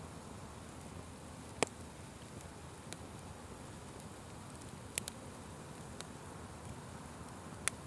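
Open fire burning with a steady low hiss and sharp crackling pops: a loud pop about one and a half seconds in, a quick double pop about five seconds in, another near the end, and a few fainter ones between.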